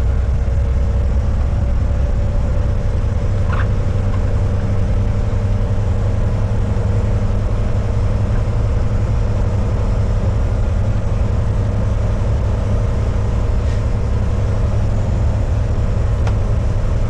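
Diesel engine of a loaded semi-truck and its tyres on the road, a steady low drone while cruising, heard from inside the cab.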